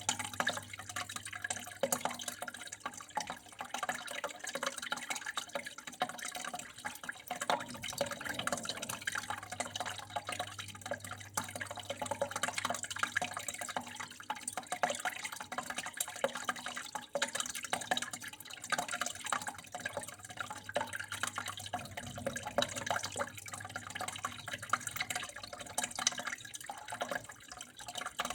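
Water running and trickling steadily, with a constant patter of small drips and splashes. A faint steady low hum sits underneath.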